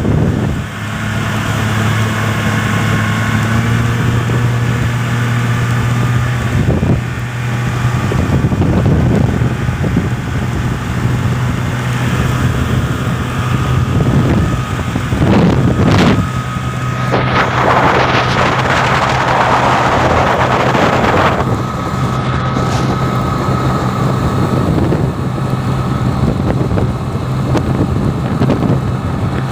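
Jet boat engine running at a steady pitch, rising a little a few seconds in, with wind buffeting the microphone in gusts.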